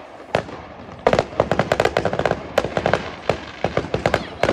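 Fireworks going off: a couple of single bangs, then from about a second in a fast, dense run of many sharp cracks and pops.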